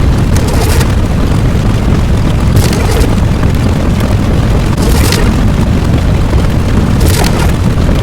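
Loud, continuous deep rumbling sound effect, explosion-like, with a short hissing burst about every two seconds.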